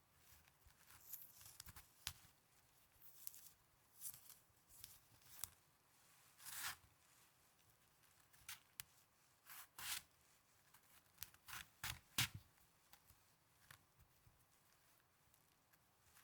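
Snow handled close to the microphone for ASMR: soft, crisp crunches and scrapes at irregular intervals, some short and a few lasting around half a second, with the loudest about twelve seconds in.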